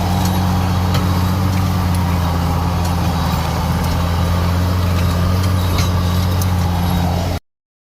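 John Deere 7710's 8.1-litre common-rail six-cylinder diesel engine running steadily with a deep, even drone. It stops abruptly near the end.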